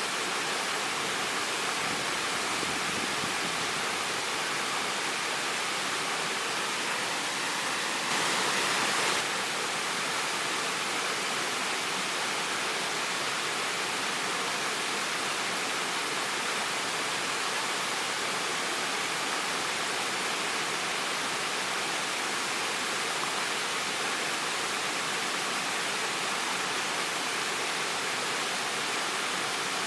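Waterfall: water falling and splashing in a steady, even rush, with a brief louder surge about eight seconds in.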